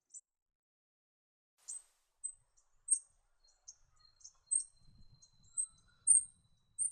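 Short, very high-pitched bird chirps, a dozen or so at irregular intervals, starting about a second and a half in. A faint thin steady whine joins about halfway through, and a faint low rumble near the end.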